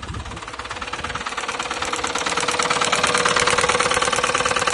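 Ford EcoBoost petrol engine running with a fast, even clatter and a steady whine underneath, growing louder over the first three seconds. This is the failed engine, which had a cracked cylinder head.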